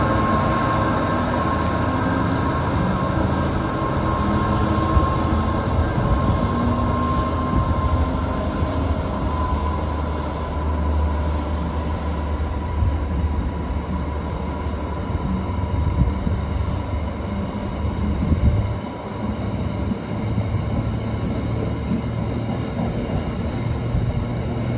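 Diesel locomotive running, a steady engine drone with a high whine that slowly drops in pitch.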